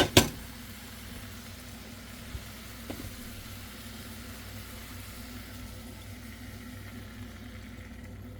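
Marinated chicken sizzling in a pan over medium heat: a steady hiss that thins out near the end. Two sharp clanks of cookware come at the very start.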